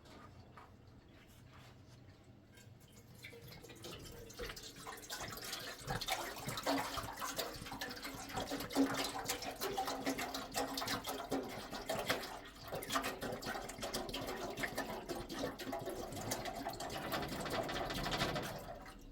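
Water running and splashing into a container, building up over a few seconds and stopping just before the end.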